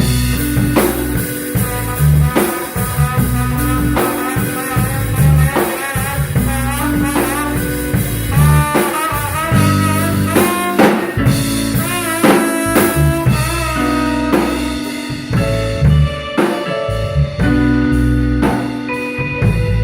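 A live instrumental band playing a blues-jazz groove: a drum kit keeping a steady beat under a bass line, with a melodic lead line that bends and wavers in pitch.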